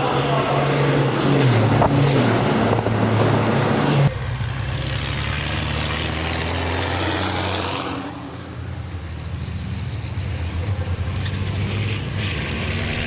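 Racing trucks' diesel engines running hard on track. About four seconds in the sound cuts abruptly to a steadier, lower engine drone, which dips and then builds again.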